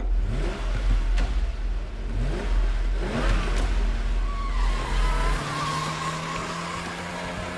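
Sports car engines revving again and again, each rev a rising sweep in pitch, over a deep rumble. About five seconds in the revving gives way to a steadier engine note with a high wavering squeal.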